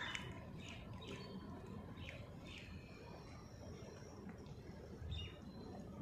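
Small birds chirping faintly in short, falling chirps, several in the first three seconds and one more about five seconds in, with a thin high whistle in between.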